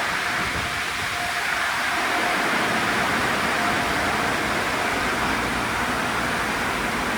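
Steady rushing noise of a Sonny's tunnel car wash running, with water spray and air blowing together, plus a faint steady whine.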